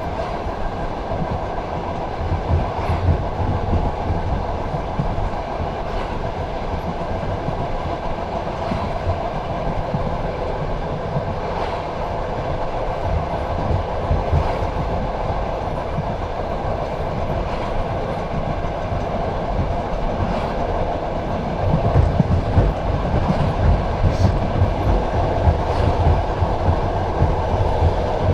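Passenger train carriage rolling along the track, heard from inside the carriage: a steady rumble of wheels on rail with occasional clacks over rail joints. It grows louder and rougher about three quarters of the way through.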